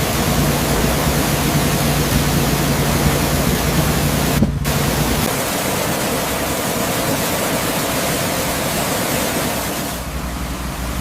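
Loud steady rushing noise with a low hum through the first half, broken by a short dropout about four and a half seconds in.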